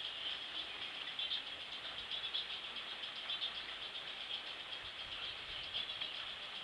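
Steady rain falling outside, a fine even hiss flecked with small pattering ticks.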